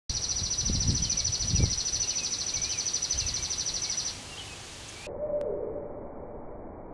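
Outdoor bird sounds: a steady, evenly pulsing high trill with a few small chirps and two short low rumbles. About five seconds in, after a cut, a low cooing call dips in pitch, typical of a dove.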